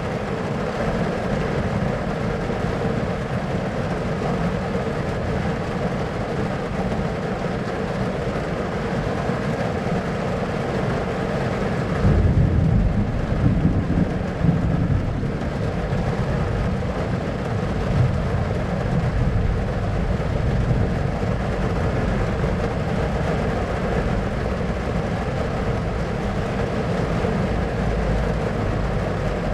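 Thunderstorm ambience: a steady wash of storm noise, with a deeper roll of thunder swelling about twelve seconds in and a smaller rumble a few seconds later.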